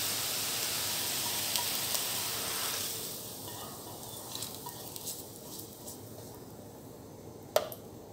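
Hot oil and freshly fried grated carrots sizzling as they are tipped from a frying pan into a pot; the sizzle dies down about three seconds in. Light scraping ticks of a spatula follow, with one sharp tap near the end.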